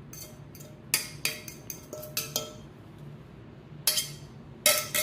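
A serving utensil clinking and tapping against a dish as scrambled eggs are scooped into a bowl of seasoned rice: a quick run of clinks about a second in, then a few more near the end.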